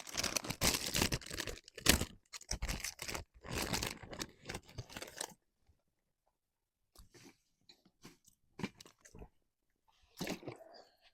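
Crisp crunching and rustling of a nori hand roll with leafy greens being handled and bitten close to the microphone, dense for about five seconds, then a few scattered crunches near the end.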